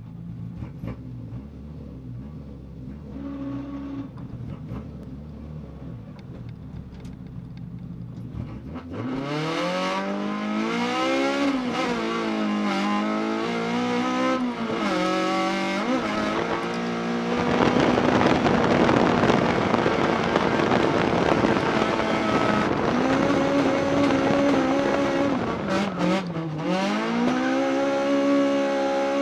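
Toyota AE86's 4A-GE four-cylinder on individual throttle bodies, heard from inside the stripped, caged cabin. It idles low for about the first nine seconds, then revs hard, its pitch swinging up and down with the throttle and dropping away sharply twice near the end. About halfway through a stretch of harsh tyre noise comes over the engine as the car slides.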